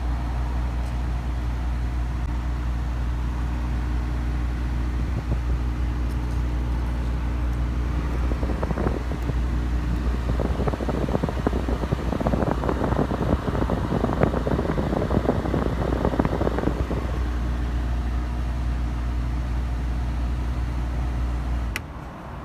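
Car engine idling steadily, with a rapid, irregular rattle that comes in about eight seconds in and lasts roughly nine seconds before the idle is steady again; the running sound cuts off near the end.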